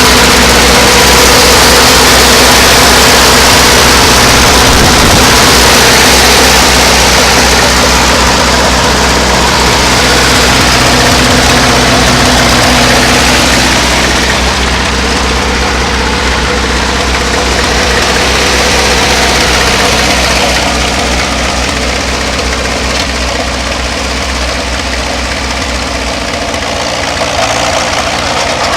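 1951 Oliver OC-3 crawler tractor's four-cylinder engine running steadily, loud at first and growing somewhat quieter over the second half, with a change in its note near the end.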